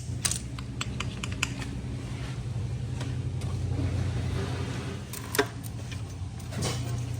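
Steady low machine hum, with a quick run of small clicks and rattles in the first second or so and one sharper click about five seconds in, as small parts and tools are handled.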